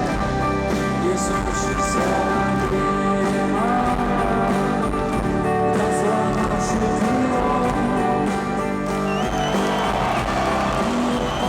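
A live rock band playing an instrumental passage with no lyrics: sustained chords under a gliding melodic lead line.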